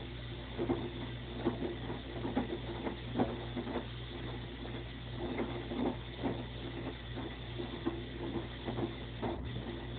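LG front-load washing machine draining: a steady low pump hum with irregular gurgles and splashes of water a few times a second.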